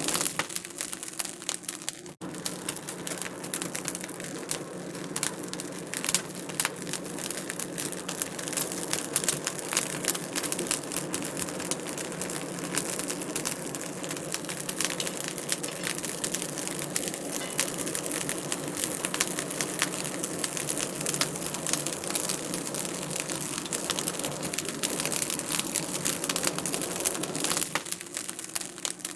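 Wood fire crackling in a fireplace: a dense, irregular run of small pops and snaps over a steady hiss, with a brief gap about two seconds in.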